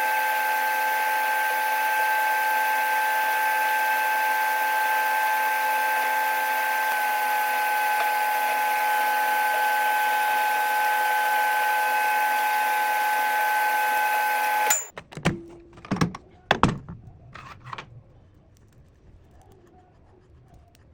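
Microwave oven running with a steady hum and hiss that cuts off suddenly about 15 seconds in, followed by a few sharp knocks and clicks.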